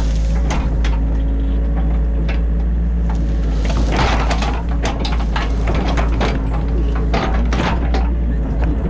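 A New Holland E50.2 mini excavator's diesel engine running steadily, heard from inside the cab. Repeated knocks and clunks from the digging rise over the engine, with a longer rasping burst about four seconds in.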